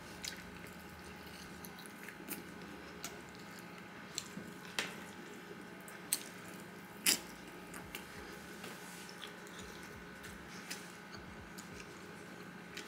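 Fried chicken wing being eaten close to the microphone: quiet chewing, with scattered short wet clicks and smacks as the meat is pulled from the bone.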